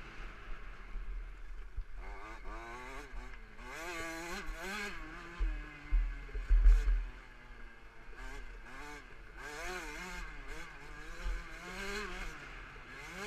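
KTM 65 SX 65cc two-stroke single-cylinder motocross engine revving hard and falling back over and over as the bike is ridden around the track. There are a few heavy low thuds around the middle.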